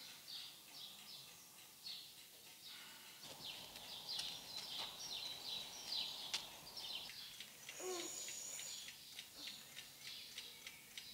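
Birds chirping: a steady run of short, falling chirps, with a brief lower-pitched sound a little before the end.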